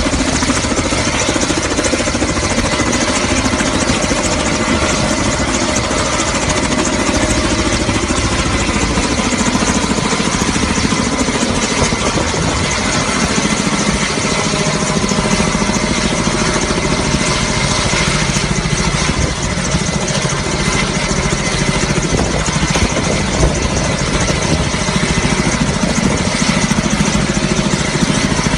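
Kamov Ka-32 helicopter running steadily: its twin turboshaft engines and coaxial rotors, with a thin, steady high whine over the din.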